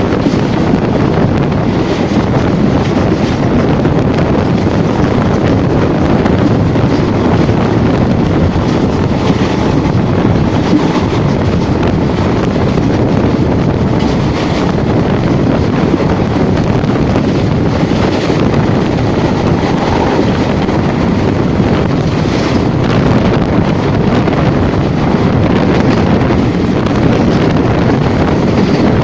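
Steady loud rumble of a moving train, with wind buffeting the microphone.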